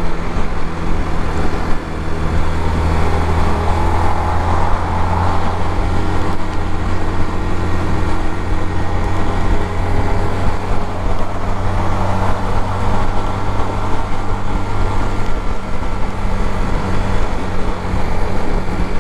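Suzuki GZ250's single-cylinder 250 cc engine running steadily at freeway speed, with wind and road noise rushing past the microphone.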